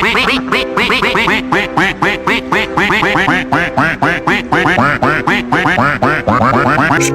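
Duck quacks repeated rapidly, about three or four a second, over background music.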